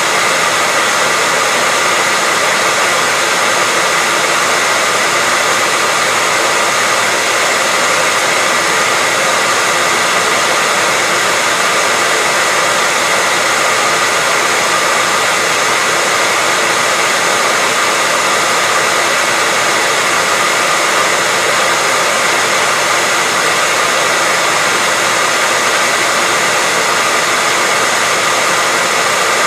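Hair dryer blowing continuously, a steady even rush of air with a faint high whine from the fan motor that never changes.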